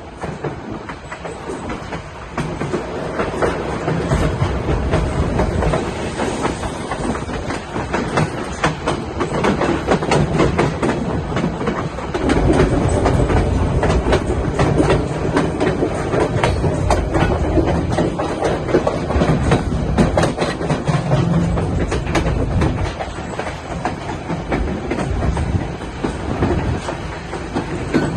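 White Pass & Yukon Route narrow-gauge train running along the track: wheels on the rails with a rumble and rapid, irregular clicking, louder through the middle stretch.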